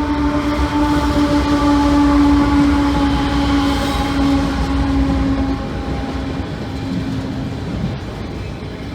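Diesel freight locomotives passing with a deep rumble while a horn sounds one long, steady blast that drops slightly in pitch and fades out after about six to eight seconds.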